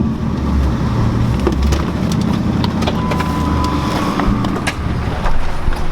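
Ford Mustang 4.6-litre V8 idling with scattered ticking, just after overheating and smoking heavily, as the owners fear it is about to seize.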